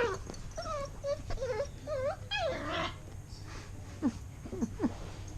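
Bernese Mountain Dog puppies whining and whimpering at play. A run of high, wavering whines fills the first three seconds, then a few short yips come near the end.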